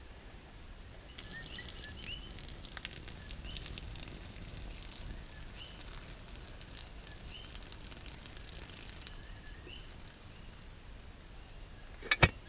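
Hot water drained from a pot of boiled air potatoes at a campfire: a steady pouring noise with scattered crackles for about eight seconds, then fainter. Two sharp metal clinks of the pot near the end.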